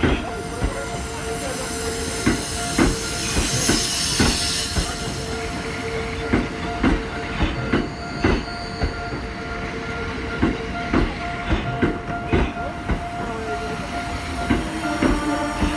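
Tokyo Metro Ginza Line train passing over a level crossing, its wheels knocking over the rail joints in an irregular clickety-clack, with steady high tones ringing throughout.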